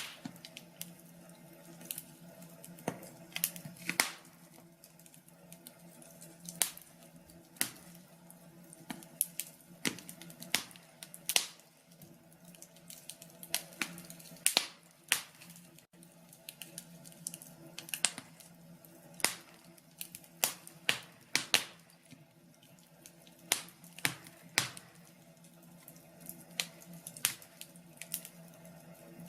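Wood fire crackling in a fireplace: irregular sharp pops and snaps at uneven intervals, some louder than others, over a faint steady hum.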